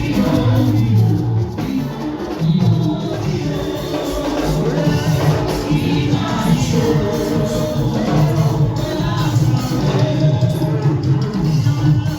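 Lively gospel praise music: voices singing over a steady beat with hand percussion.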